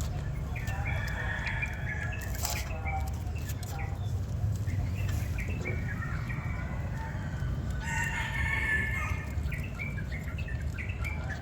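Domestic fowl clucking and calling, in short repeated calls with a longer, fuller call about eight seconds in, over a steady low background noise.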